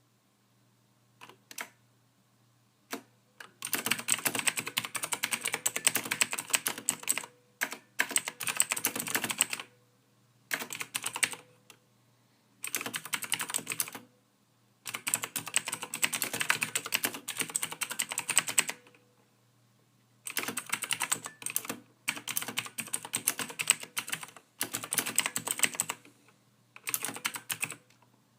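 Typing on a computer keyboard: a few single key presses, then runs of rapid keystrokes one to four seconds long with short pauses between them.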